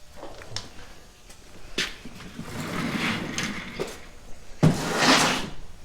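Metal tools and parts being handled: a few sharp clicks, a scraping rattle, then a loud knock about four and a half seconds in followed by a longer rattling scrape.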